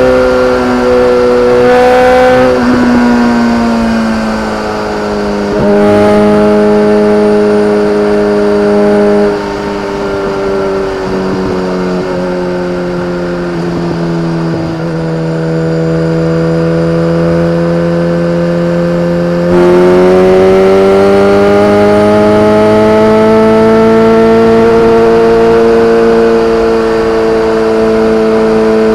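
BMW K1300R's 1293 cc inline-four engine through an Akrapovic exhaust, its note falling and rising in pitch with the throttle. It turns louder about six seconds in, eases off around ten seconds, sags to its lowest pitch mid-way, then opens up loudly a little past two-thirds of the way through and climbs steadily.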